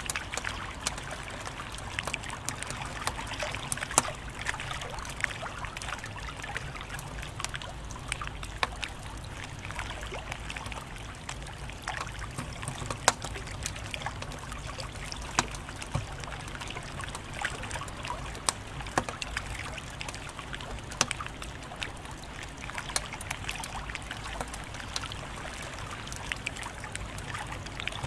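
Wood fire crackling, with irregular sharp pops and snaps over a soft steady hiss and a low rumble. The loudest pops come about four seconds in and again about thirteen seconds in.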